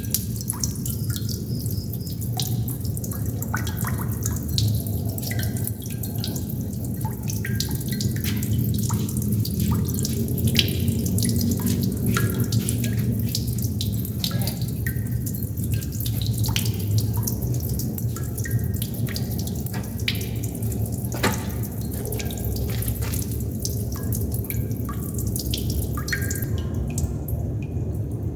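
Water droplets dripping in an irregular, rapid patter of small plinks, some with a short ringing pitch, over a steady low hum; the drips thin out near the end.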